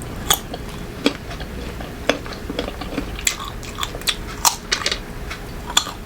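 Close-miked biting and chewing of crunchy green mango: sharp, irregular crunches, several a second at times.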